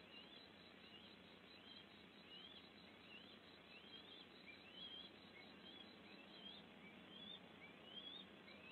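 Faint outdoor ambience: a bird repeats a short, thin, upward-sweeping whistled note about three times every two seconds over a steady low hiss.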